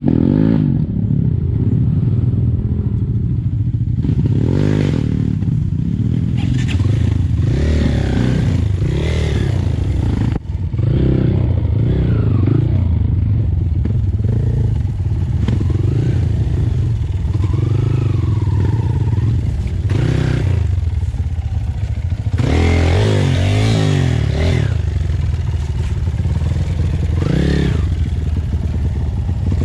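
Trail motorcycle engine revving hard and easing off again and again, its pitch rising and falling as it works under throttle, with rattling and clatter from the bike.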